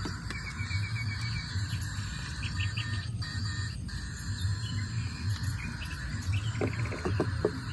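Outdoor ambience: a steady high hum of insects and scattered bird chirps, including one quick trill, over a low uneven rumble. A few light knocks come near the end.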